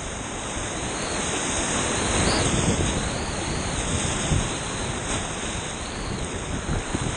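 Rushing creek whitewater, a steady noise that swells a little about two seconds in.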